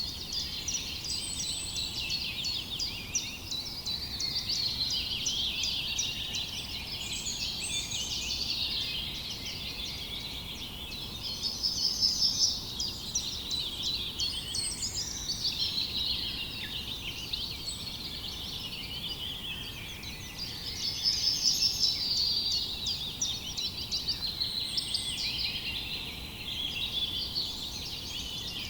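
A dense chorus of small songbirds chirping and twittering over one another, with two louder passages of rapid trilling, one near the middle and one about three-quarters through.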